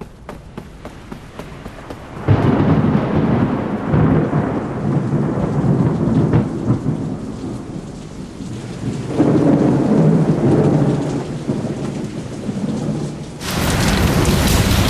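Thunderstorm: rolling thunder over rain. A loud rumble breaks in suddenly about two seconds in and swells again midway. Near the end a brighter hiss of heavy rain comes up sharply.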